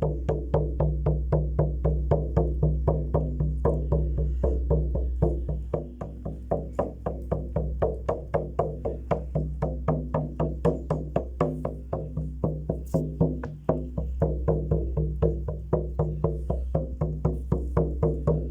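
A hand drum beaten in a steady, fast rhythm of about four strikes a second, with a ringing tone and a low hum under the beats; the beat briefly softens about six seconds in and again near fourteen seconds.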